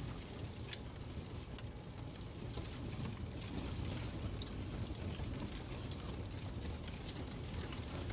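Fireplace ambience: a steady low rumble and hiss of burning wood, with scattered irregular crackles and pops.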